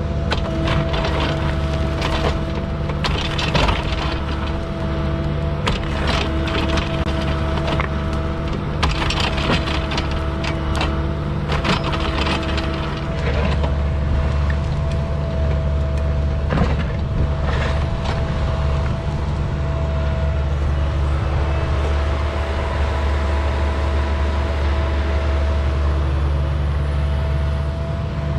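Cat mini excavator's diesel engine running steadily, with a held whine over it and scattered knocks and scrapes, heaviest in the first half.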